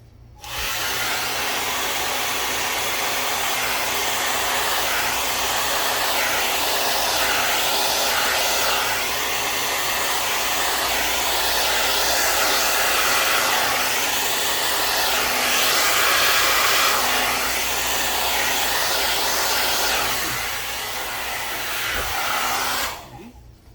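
Hair dryer blowing: a steady rush of air with a faint motor hum. It is switched on about half a second in and cut off just before the end.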